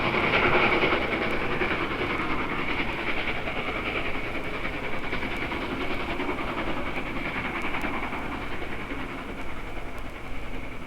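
Norfolk & Western class J 4-8-4 steam locomotive No. 602 and its train rolling past on the upgrade, the sound gradually fading into the distance.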